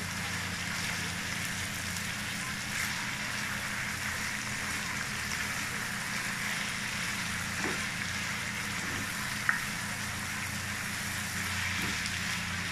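Chicken and onions sizzling steadily in a hot wok as they are stirred with a spatula, over a steady low hum. A single short click sounds about three-quarters of the way through.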